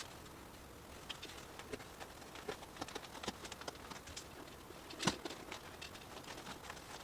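Scattered light taps and clicks at irregular intervals, with one louder knock about five seconds in.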